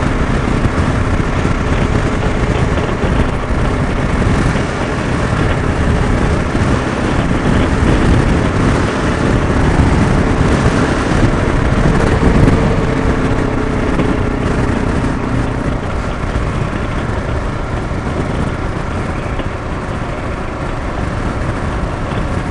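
Motorcycle being ridden on the road: the engine runs steadily under a heavy, even rush of wind and road noise, its pitch shifting slightly around the middle.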